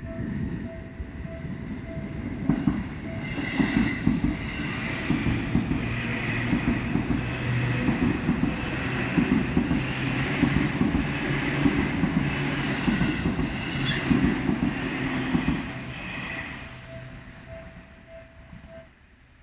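A Seibu Line train passing over a level crossing. Its wheels clack over the rail joints in a steady rhythm for about thirteen seconds, then fade as it moves off. The crossing's warning bell rings in quick, even pulses under the train noise and stops near the end.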